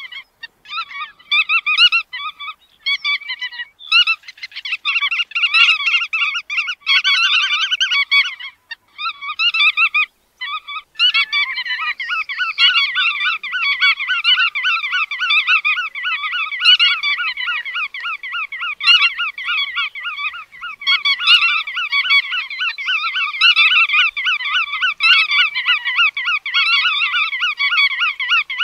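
Bar-tailed godwit calling: rapid, repeated nasal notes, coming in short bursts with brief gaps for about the first eleven seconds, then running on as a dense, unbroken, overlapping chatter.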